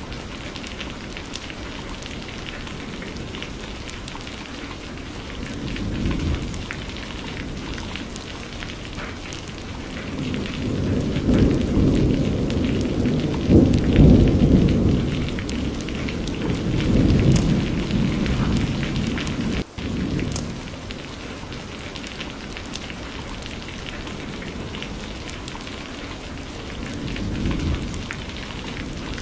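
Steady rain with rolling thunder. A long rumble builds from about ten seconds in, peaks midway and fades, with shorter rumbles near the start and near the end. The sound cuts out for an instant about two-thirds of the way through.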